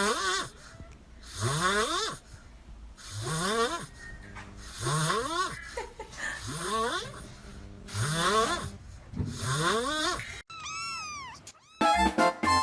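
Kitten snoring in its sleep: a wheezy snore with a rising pitch, repeated seven times about every second and a half. Near the end comes a short run of arching whistle-like tones, and then music starts.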